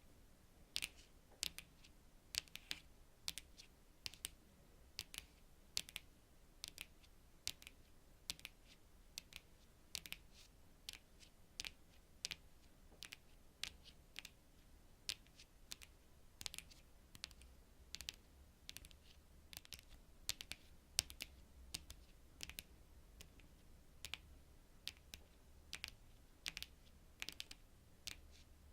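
Long natural fingernails tapping on cards: sharp, light clicks at an uneven pace of about two a second, binaurally recorded.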